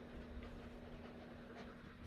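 Faint room tone with a steady low electrical hum and a couple of faint light clicks.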